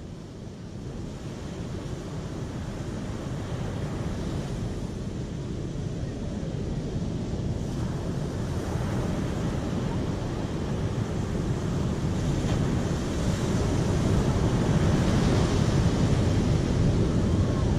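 Steady rushing of moving water, getting steadily louder.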